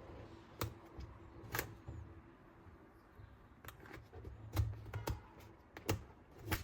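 Toy parts being handled: about seven sharp, irregular clicks with soft knocks between them, the louder ones in the second half.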